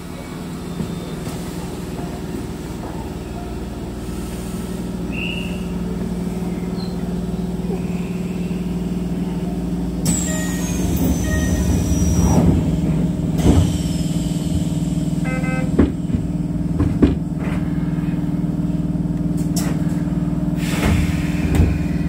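Inside the driver's cab of a Keisei electric train pulling slowly away from a station: a steady low hum from the running gear grows gradually louder. A high whistle falls in pitch about ten seconds in, and several sharp clicks from the wheels come in the second half.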